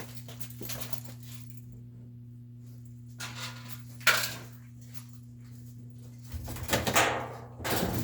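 Scattered metallic clinks and knocks of tools and parts being handled while a GE top-load washer is taken apart, with a sharp knock about halfway and a cluster of handling noise near the end, over a steady low hum.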